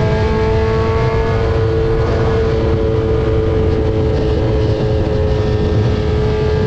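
Kawasaki Z900's 948 cc inline-four engine running at a steady high pitch under cruising speed, with rushing wind noise underneath.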